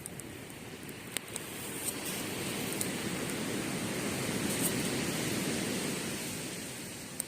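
A wave washing up the beach, its rush of surf swelling over a few seconds and then fading, while a wood campfire crackles with a few sharp pops.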